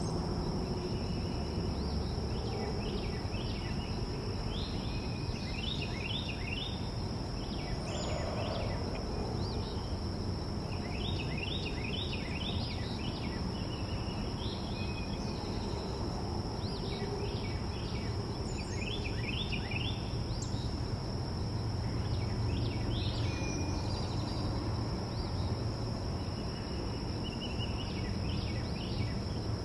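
Yard ambience: insects droning steadily on one high pitch, while small birds call in short quick series of chirps, group after group, over a low steady rumble.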